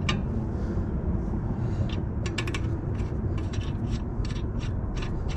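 A steel lug nut is being threaded by hand onto a wheel stud, giving irregular metallic scrapes and clicks. The nut is binding and going on tight rather than spinning on freely. A steady low rumble runs underneath.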